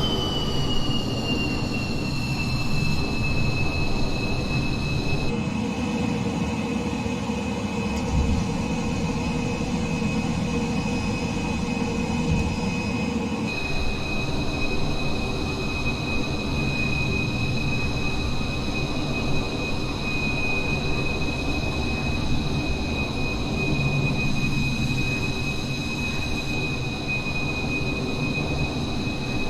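F-15 jet engines whining at low power over a low rumble. The whine drops in pitch in the first second as the throttle comes back, then holds steady.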